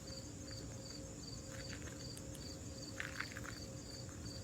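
Cricket chirping in an even rhythm, about three short high chirps a second, with a few faint ticks about three seconds in.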